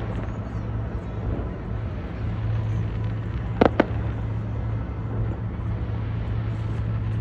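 Fireworks shells bursting: two sharp bangs in quick succession about three and a half seconds in, over steady low background noise.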